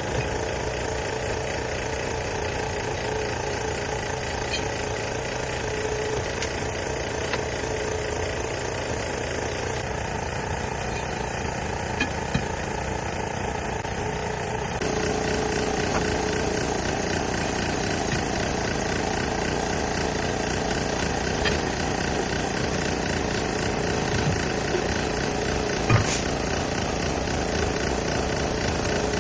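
An engine running steadily, getting a little louder about halfway through, with a few scattered clicks.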